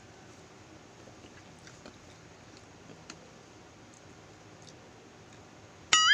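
Faint chewing and small clicks as the shell is peeled off a boiled balut egg. At the very end a loud wavering tone, an edited-in sound effect, starts suddenly.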